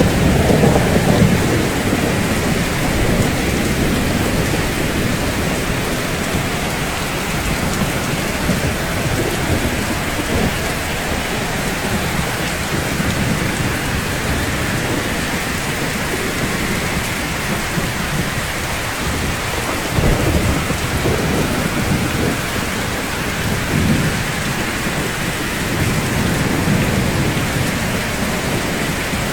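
Steady rain falling on rooftops, a constant hiss, with low rumbles of thunder swelling at the start and again several times in the later part.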